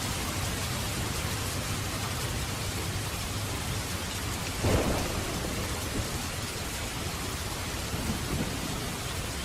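Steady rain hissing with a low rumble of thunder underneath; a sharp thunderclap breaks out about halfway through, and a smaller rumble swells near the end.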